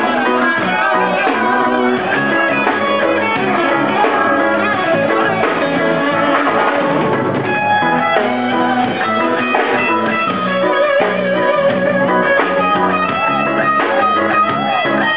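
Live reggae band playing an instrumental passage between sung lines, with guitar prominent. Loud and continuous, with no vocals.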